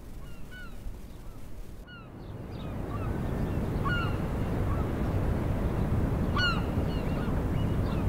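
Birds giving short, sharp calls scattered every second or so, over a low rushing noise that swells about two and a half seconds in.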